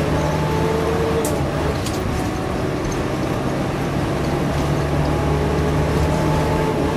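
Interior of a city bus on the move: steady engine drone with road noise, and a couple of brief clicks or rattles about a second and two seconds in.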